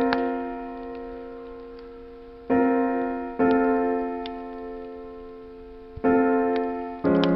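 Slow solo piano chords, each struck and left to ring and fade, about five in all. Faint sharp pops of a crackling wood fire are scattered between them.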